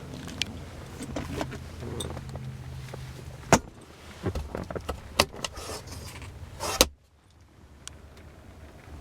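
Handling sounds of a car: a low steady hum ends in a sharp click about three and a half seconds in. Several clicks and knocks follow, then a car door shuts with a solid thump near the end, and the sound goes almost dead after it.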